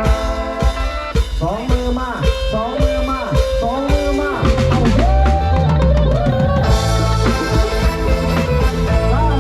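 Live band music from a Thai music-truck band: an instrumental passage with drum kit hits and fills, a melodic lead line that bends in pitch, and a bass line coming in about halfway through.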